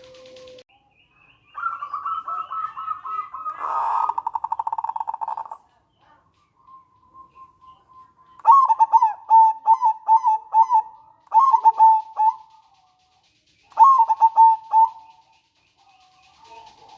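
Zebra dove (local perkutut) calling: a run of notes that quickens into a fast rattling trill (the 'nretek'), then, after a pause, three phrases of quick, clipped cooing notes (the 'manggung' song).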